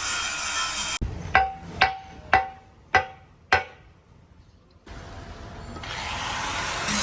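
Five sharp metallic strikes about half a second apart, each ringing briefly. A steady background, tagged as music, stops abruptly just before them and comes back near the end.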